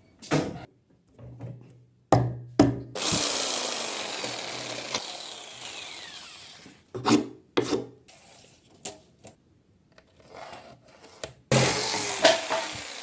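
A saw cutting through a salvaged wooden floor panel in several separate bouts, the longest lasting about four seconds and slowly fading.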